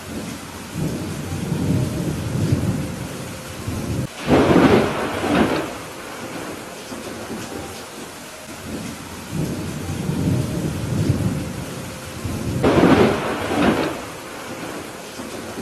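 Thunderstorm: steady rain with rolling thunder, and two sharper, louder thunderclaps, about four seconds in and again near the end.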